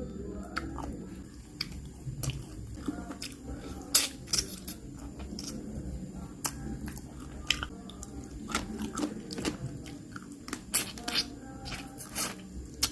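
Close-up chewing and biting of crunchy food, with irregular sharp crunches, typical of eating a spicy papaya salad with seafood.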